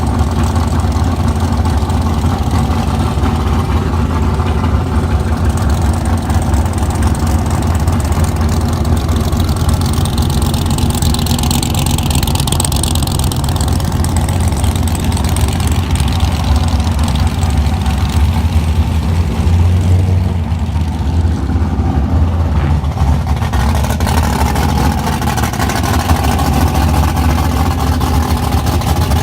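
Car engines running with a steady low rumble, idling.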